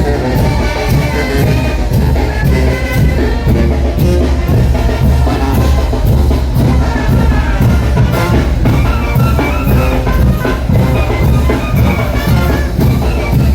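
Mexican brass band playing a son de chinelo: brass melody over a steady, regular drum beat.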